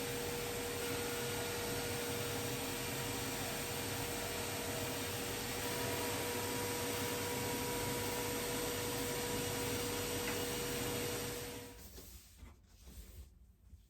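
A machine running steadily: a hiss with a steady hum in it, which stops abruptly about twelve seconds in, leaving quiet with a few small handling sounds.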